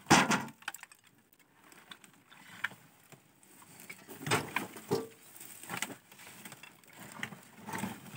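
A loud knock right at the start, then scattered knocks, clatter and scraping as something heavy is handled and moved around.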